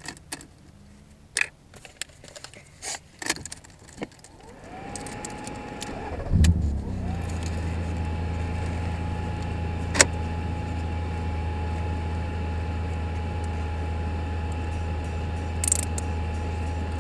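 Keys jangling and a few clicks, then about six seconds in the 2.5-litre straight-six of a 1996 BMW E36 323i with a stainless aftermarket exhaust cranks briefly and catches. It settles into a steady idle with a thin steady whine above it.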